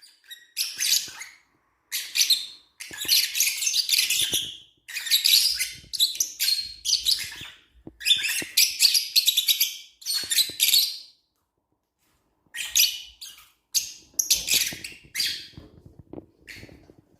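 Lovebirds chirping in rapid, shrill bursts of overlapping calls, with a pause of about a second and a half a little past the middle.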